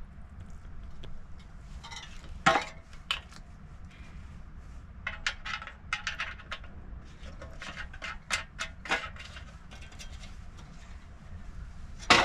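A scatter of sharp, irregular clicks and knocks from objects being handled, the loudest about two and a half seconds in and at the end, over a low steady background noise.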